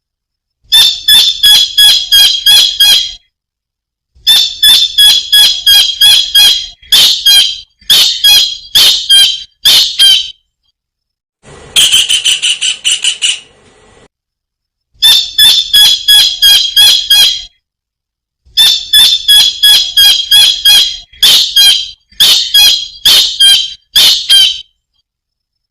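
Kingfisher calling: loud runs of rapid, sharp, high notes, about five a second, each run lasting a few seconds with short pauses between.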